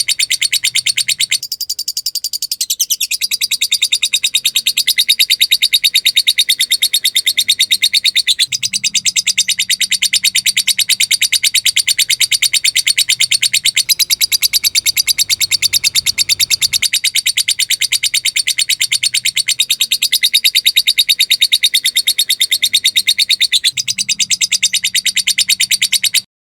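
Lovebird giving a long, unbroken ngekek: a rapid, high-pitched chattering trill of many notes a second that cuts off suddenly near the end.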